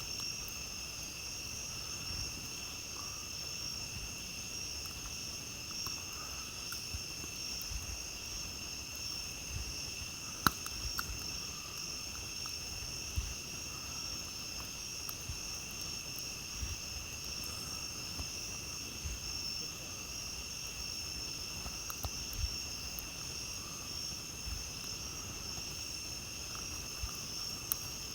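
A steady chorus of night insects trilling at a high pitch, with scattered small crackles and pops from a campfire, one sharper pop about ten seconds in.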